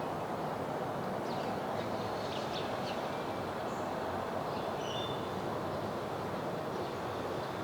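Sparrows chirping faintly now and then over a steady rushing background noise.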